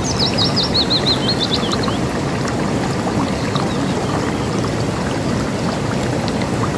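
A river rushing and splashing steadily. Over it, a songbird sings one fast phrase of about fifteen high, sharply falling notes in the first two seconds, slowing at the end, with faint chirps afterwards.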